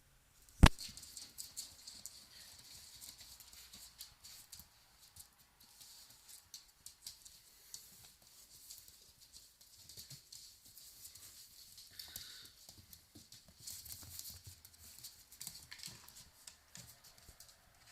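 Husky puppies moving about: many small clicks and taps of their paws and claws, with one sharp knock about half a second in.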